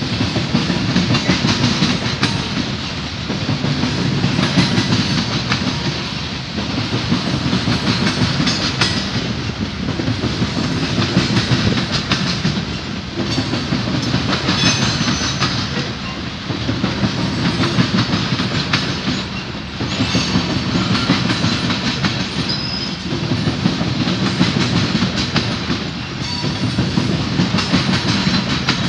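CSX covered hopper cars of a freight train rolling past, a steady rumble of steel wheels with clickety-clack over the rail joints, swelling and dipping every few seconds as each car's trucks go by. A few brief faint high wheel squeals come through.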